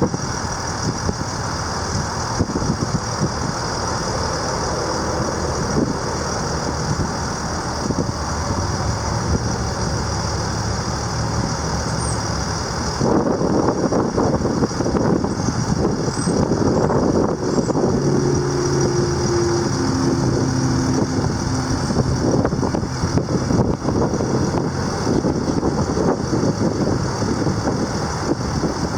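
International 4300 truck's DT466 turbo diesel running steadily. A little before halfway it grows louder, and a few short steady whining tones come in around two thirds through.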